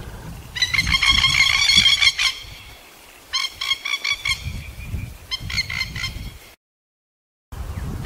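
A bird giving three bursts of rapid chattering calls, the first about a second and a half long and the next two shorter, over a low rumble. The sound cuts out completely for about a second near the end.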